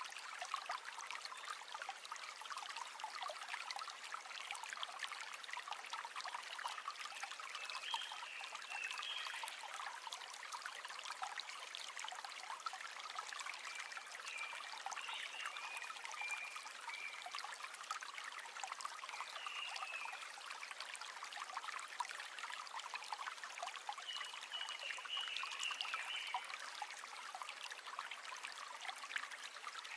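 River water flowing in a steady, even babble and trickle, with a few brief high-pitched notes now and then.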